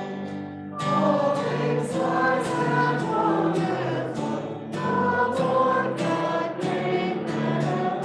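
Choir singing a sacred piece in sustained phrases, with short breaks between phrases near the start and about four and a half seconds in.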